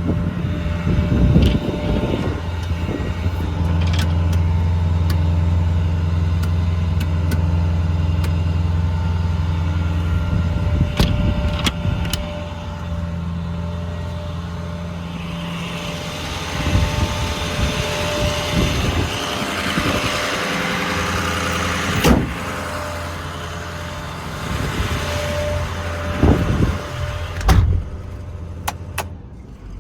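Ford F550 service truck's engine idling steadily, with scattered clicks and a sharp knock about two-thirds of the way through.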